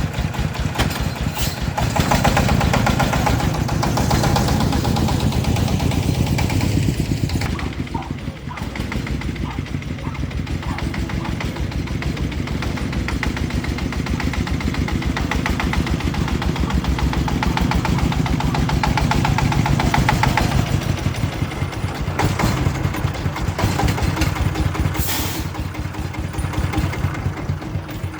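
Vehicle engine running steadily under way, with a fast, even pulse; it drops away near the end.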